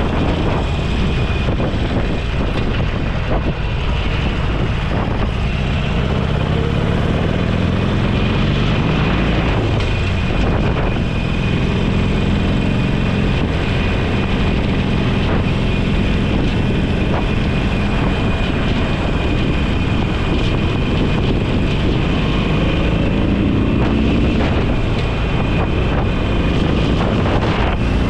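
Motorcycle engine running on the move, its pitch rising and falling several times as it accelerates and changes gear, under heavy wind noise on the microphone.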